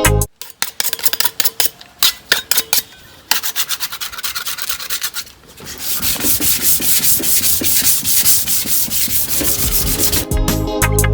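Hand sanding of hardened body filler on a car bumper: quick back-and-forth scraping strokes, uneven at first and then faster and steadier from about six seconds in.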